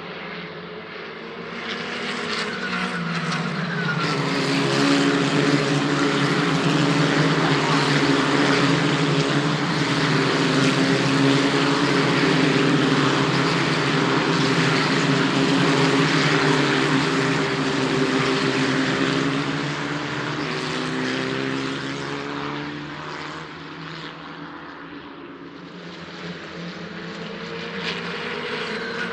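Racing car engines running hard on track, swelling as they approach, holding loud and steady for a long stretch, then fading away, with another car starting to build up near the end.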